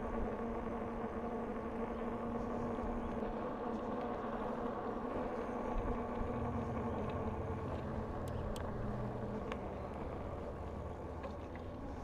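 Steady riding noise of a bicycle on a paved path: a continuous hum with a few held tones, with a deeper wind rumble on the microphone from about halfway and a few faint ticks.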